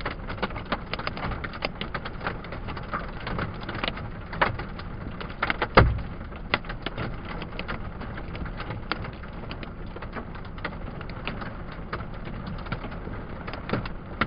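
Hailstones pelting a pickup truck, heard from inside the cab: a dense, irregular patter of sharp clicks and knocks, with one loud strike about six seconds in.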